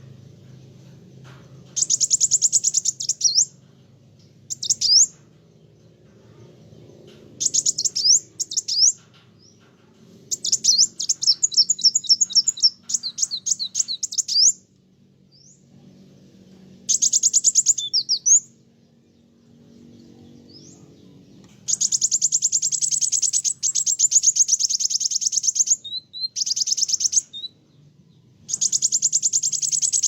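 A kolibri wulung sunbird singing in high-pitched, rapid chattering trills, in bursts of one to two seconds with short pauses between them. The phrases grow longer, about four seconds each, in the last third.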